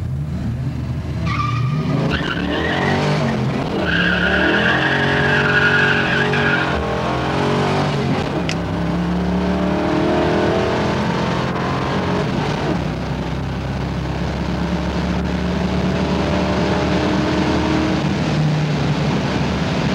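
A Ford Mustang's 5.0 V8, heard from inside the cabin, accelerating hard down a drag strip. Its pitch climbs through each gear and drops at each shift. A high tyre squeal sounds over the first several seconds of the launch.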